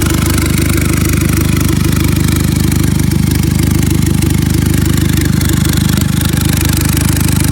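2012 VW GTI's freshly turbo-swapped four-cylinder engine running at a loud, steady idle with the downpipe left off, so the exhaust leaves straight from the new K03 turbo.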